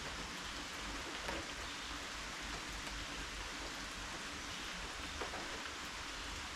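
Steady rain falling, with the light patter of individual drops hitting nearby surfaces.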